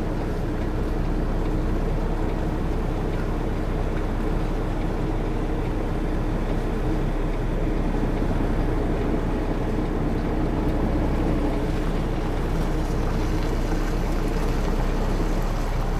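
Tractor-trailer's diesel engine running steadily at low speed, a constant low drone while the rig is manoeuvred into position for backing.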